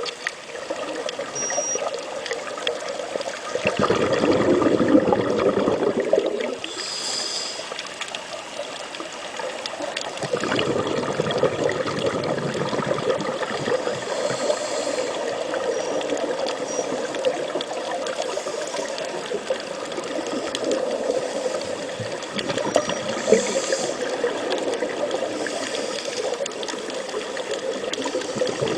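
Continuous water noise, a trickling, gushing rush with fine crackle, swelling louder for a couple of seconds about four seconds in.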